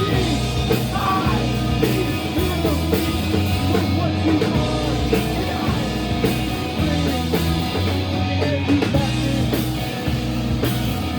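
Live rock band playing loud amplified music, with electric guitar and a voice singing at times.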